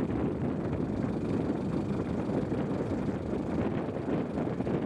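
Steady low rumbling wind noise buffeting the microphone.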